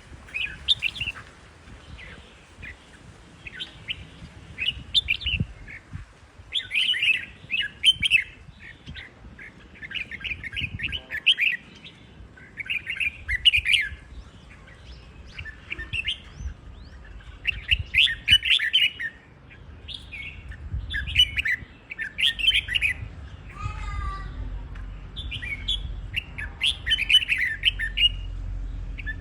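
Red-whiskered bulbuls singing, short chirpy song phrases repeated every second or two.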